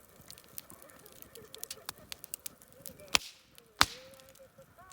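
Wood campfire crackling with a run of small pops, then two loud sharp snaps about three and four seconds in, the first followed by a short hiss.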